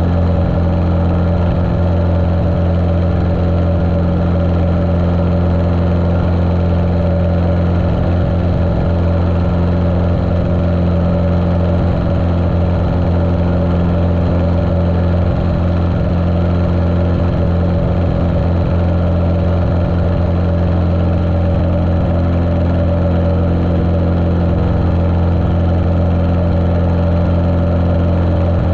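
The Continental O-200 engine of a 1973 Cessna 150L running at a steady drone, muffled as heard through a GoPro's waterproof case. The engine sounds healthy.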